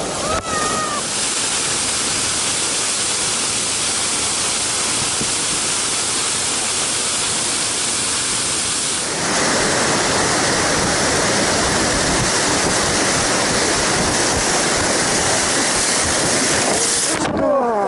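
Rushing whitewater of a Colorado River rapid, a steady loud roar of water heard from the raft. It grows fuller and a little louder about halfway through and cuts off abruptly near the end.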